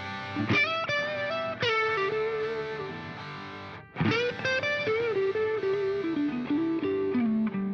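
Background music: a melodic electric guitar line with distortion over a sustained chord, playing two phrases with pitch bends and slides.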